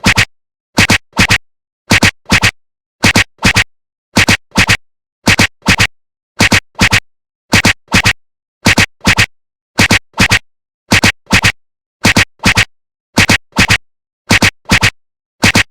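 Train wheels clacking over rail joints, 'clickety-clack': pairs of sharp clacks a little more than once a second, evenly spaced, with complete silence between the pairs.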